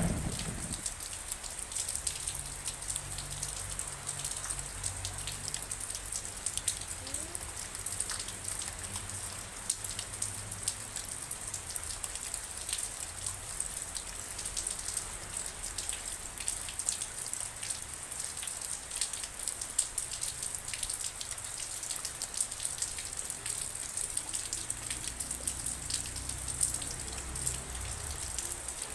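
Steady rain falling, with many sharp individual drop hits over an even hiss; the tail of a thunder rumble fades out right at the start.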